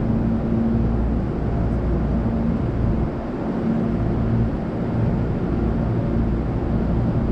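Steady low hum of a Hankyu electric train standing with its onboard equipment running, with a few constant low tones over a noisy background; it eases slightly about three seconds in.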